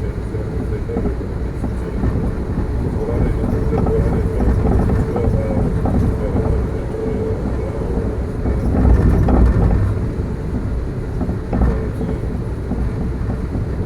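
Amtrak passenger train running: a steady low rumble with a held mid-pitched tone through the first half, swelling louder about nine seconds in.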